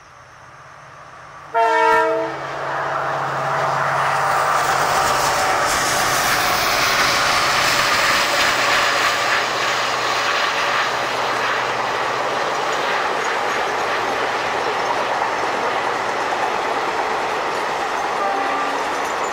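A WDP4D diesel locomotive sounds one short horn blast about a second and a half in. Then comes the steady, loud rumble and rail clatter of the express's passenger coaches running across a concrete viaduct, with the locomotive's low engine drone underneath.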